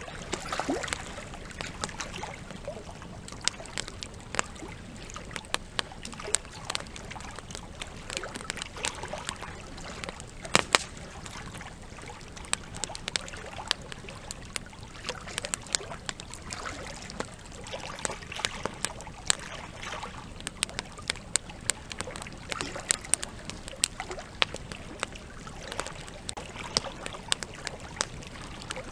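Campfire wood crackling with frequent sharp pops over the steady rush of flowing river water, and a louder pair of pops about ten seconds in.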